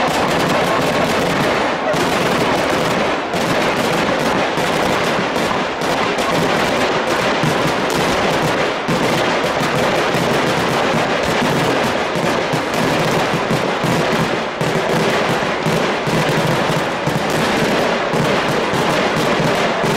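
Kerala temple-festival fireworks (vedikettu) fired from the ground in a continuous rapid barrage: dense, unbroken crackling bangs with no pause.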